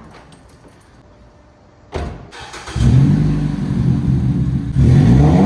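Straight-piped Mazda 3 Skyactiv 2.0 four-cylinder engine, very loud with no mufflers. Faint clicks come first, then the engine bursts into sound about two seconds in and runs loud. Near the end it gets louder with rising pitch as it revs.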